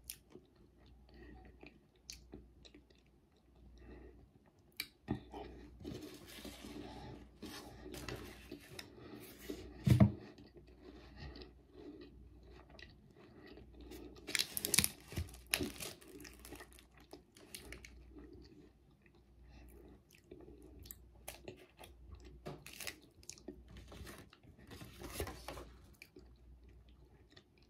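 A person chewing a chocolate-covered crispy wafer bar with the mouth closed, with soft crunches and smacks, the loudest about ten and fifteen seconds in.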